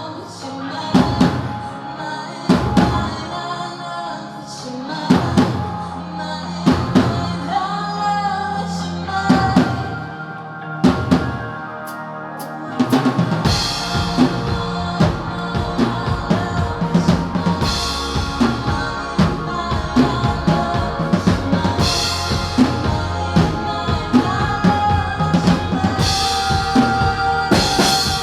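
Band music: sparse drum hits over sustained pitched instruments, then the full drum kit comes in with a steady beat about halfway through.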